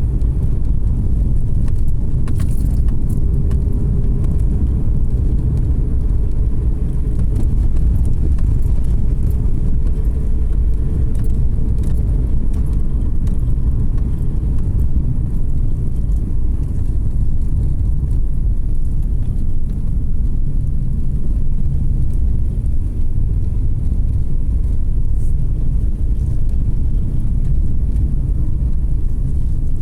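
A car driving: a steady low rumble of engine and tyres on the road. A faint hum rises slightly in pitch over the first dozen seconds, and there are a few light ticks.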